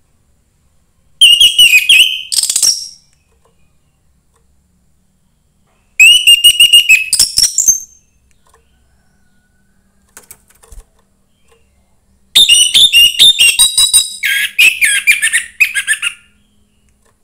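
A young wild-caught orange-headed thrush singing. It gives three phrases of rapid, varied high whistled notes with pauses between, and the last phrase is the longest.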